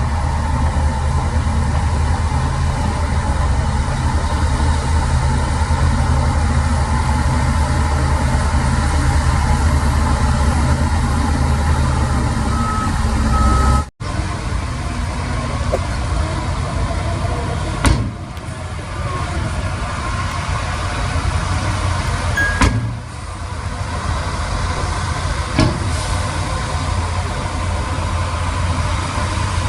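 Diesel engines of heavy construction machinery running steadily, with a couple of short high beeps and a brief total break about halfway, then a few sharp knocks over the rest of the stretch.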